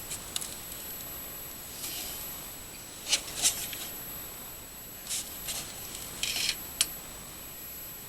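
Scattered short metallic clicks and clinks of a hand wrench working the two carburetor mounting bolts on a snowblower, with a slightly longer run of clicks about six seconds in.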